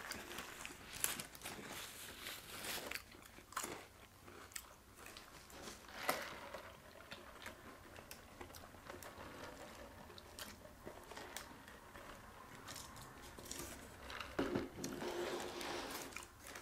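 Close, quiet chewing and biting of crispy fried turkey sandwiches, with scattered small crunches and wet mouth clicks, a little busier near the end.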